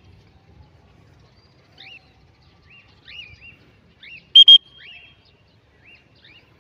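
A small bird giving faint, short rising chirps every second or so, and about four and a half seconds in a recall whistle blown twice, short and loud.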